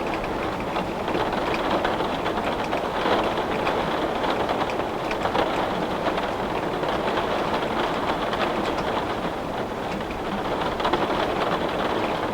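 Heavy rain hitting a window pane, a steady dense patter with many small drop ticks.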